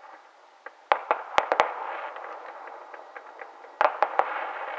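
Aerial fireworks bursting: a quick cluster of about four sharp bangs about a second in, then three more near the end, each cluster trailing off in a lingering rush of noise.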